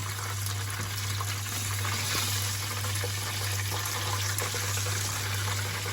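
Chicken pieces frying in hot oil in a pan: a steady sizzle with many small crackles, over a steady low hum.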